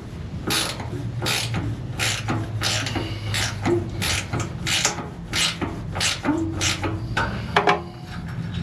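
Hand ratchet with a 13 mm socket being swung back and forth to loosen the bolt on a ground cable: a short rasping ratchet click on each back-swing, about two strokes a second.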